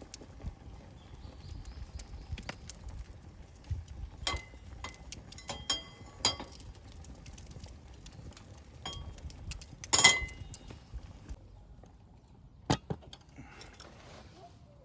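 Scattered clinks and knocks of metal camp cookware and utensils being handled, some ringing briefly. The loudest comes about ten seconds in.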